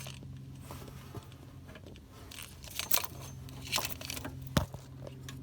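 Hands working a small rubber coolant hose off its fitting under a Mazda Miata's throttle body: scattered clicks, scrapes and rustling, with a sharp knock about four and a half seconds in, over a steady low hum.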